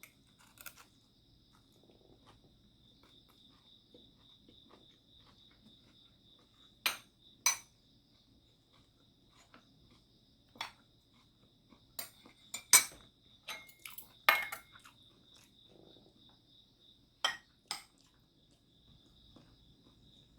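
Cutlery clinking against bowls and plates during a meal: about ten sharp clinks, in bursts through the middle and later part. A steady high-pitched insect chirring, like crickets, runs underneath.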